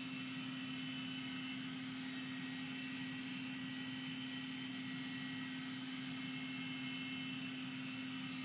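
Blade mCX2 micro coaxial RC helicopter flying, its small electric motors and rotors giving a steady, even hum.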